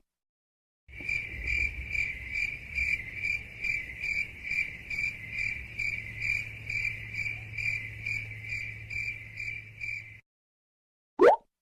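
Cricket chirping, used as a sound effect: a steady high chirp pulsing about twice a second over a low hum, starting about a second in and cutting off abruptly. A quick rising swoosh follows near the end.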